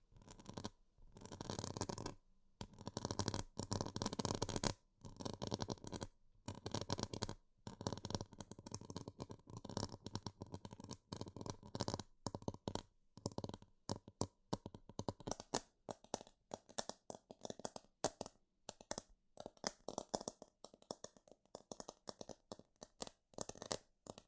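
Close-up scratching and rubbing sounds in quick strokes, in bursts of a second or two, turning into shorter, faster strokes about halfway through.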